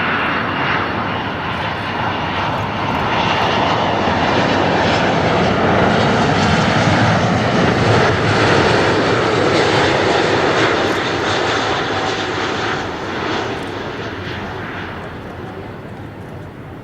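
Airplane passing by, its engine roar building to a peak about halfway through, then fading over the last few seconds.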